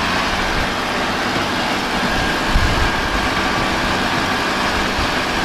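Heavy vehicle engine running steadily, with a brief knock about two and a half seconds in.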